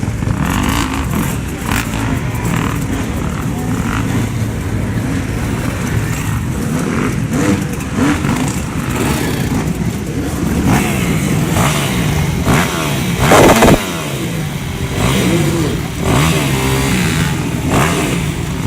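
Off-road motorcycle engines revving over and over, the pitch rising and falling as the bikes are throttled up and backed off, with a brief very loud blast of revs about two-thirds of the way through.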